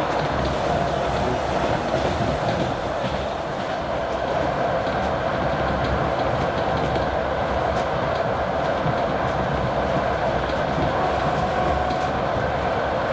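A moving train hauled by a TEP70 diesel locomotive: a steady rumble of wheels on rails with faint scattered clicks, and the diesel engine running under it.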